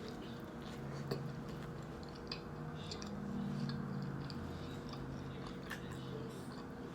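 A person chewing a grinder salad sandwich close to the microphone, with small wet mouth clicks and a faint low hum partway through.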